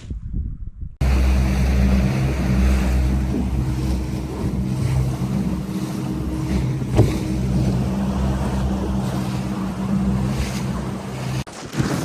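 Motorboat engine running steadily under way, with wind and water noise over it. It starts suddenly about a second in and cuts off abruptly near the end.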